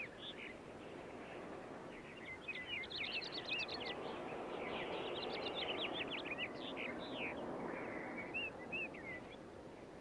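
Small birds chirping in quick, high, rapid notes over a steady background hiss. The chirping starts about two seconds in and thins out near the end.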